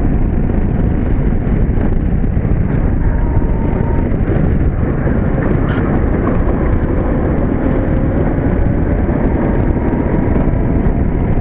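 Steady rush of wind and tyre rumble from a go-kart at speed, driven by an electric mini-bike motor. Its motor adds only a faint whine that shifts a little in pitch as the speed changes; there is no engine sound.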